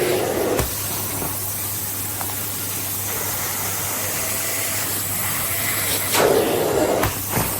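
Philips Series 3000 Performer Compact 900 W bagged vacuum cleaner running at full power: a steady rushing hiss over a low hum. The sound swells briefly near the start and again about six seconds in.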